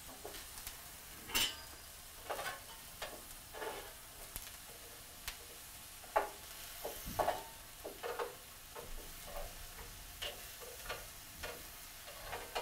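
Eggplant slices and lemon halves sizzling on a stovetop griddle pan, with irregular light clicks and taps of a utensil on the pan as they are turned. The sharpest knocks come about a second and a half in and again around six and seven seconds.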